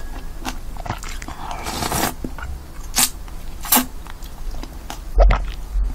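Close-up chewing of crisp soybean sprouts: irregular crunches and crackles in the mouth.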